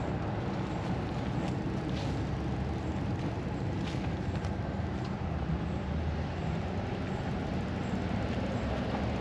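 Steady low vehicle rumble, like an engine running nearby, with a few faint clicks.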